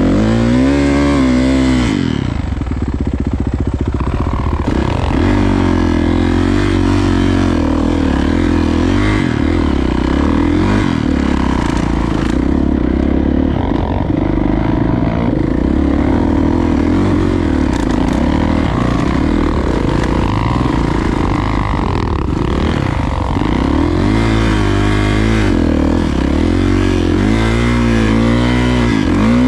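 Dirt bike engine running hard under load, its revs rising and falling again and again, as on a climb with the rear tire scrabbling for grip.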